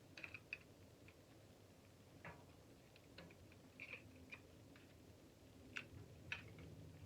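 Near silence broken by about ten faint, irregular clicks and taps of small parts and hand tools being handled.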